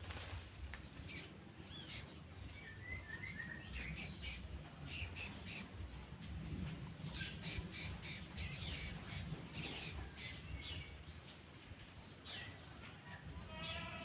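Birds calling in short squawks and chirps, with a few quick rising calls and a fast descending run of notes near the end, over the rustle of leafy branches being pulled and handled.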